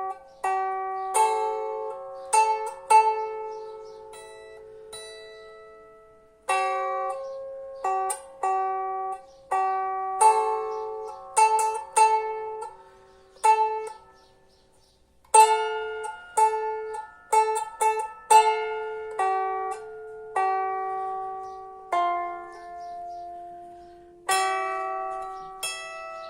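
Lyre being plucked: single notes that ring on and overlap in a slow melody, with a short pause about halfway through.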